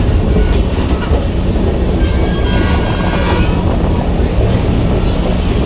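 Passenger train running along the track: a steady low rumble of wheels on rail, with faint high-pitched tones between about one and three seconds in.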